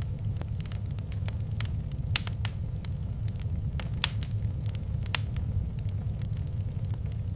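Wood fire crackling in a fireplace: irregular sharp pops and snaps over a steady low rumble of the burning fire, with a few louder pops about two, four and five seconds in.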